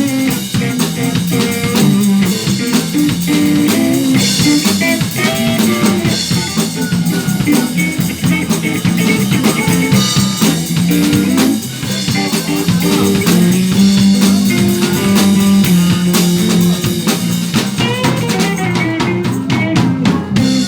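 Live band playing a song, led by a drum kit with guitar and other instruments over a steady beat.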